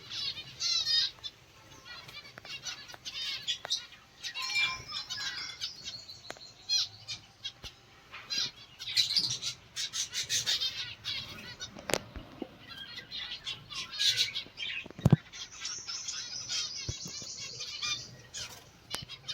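Small aviary birds chirping in quick, repeated high calls, with wings fluttering and a couple of sharp knocks about twelve and fifteen seconds in.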